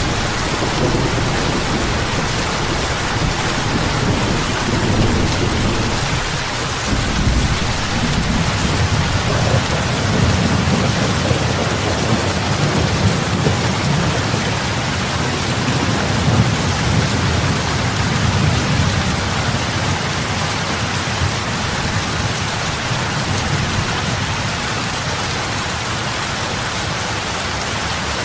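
Heavy rain falling on lake water: a dense, steady patter of drops on the surface, with a low rumble underneath that swells and eases through the middle.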